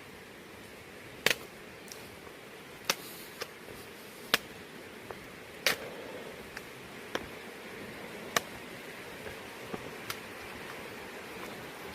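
Steady background hiss broken by about a dozen sharp, irregular clicks or taps. The loudest come about a second and a half in, around four and a half seconds and near eight and a half seconds.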